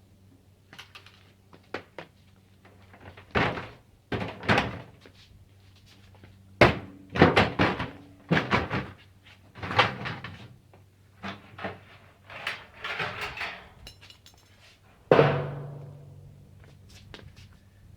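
Irregular knocks, thuds and scrapes of sheet-metal water-heater parts being handled and pulled apart, with a loud metallic bang about fifteen seconds in that rings briefly.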